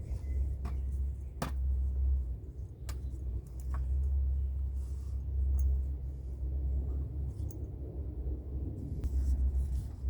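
Low, gusty rumble of wind buffeting the microphone, rising and falling, with scattered light clicks and knocks of equipment being handled.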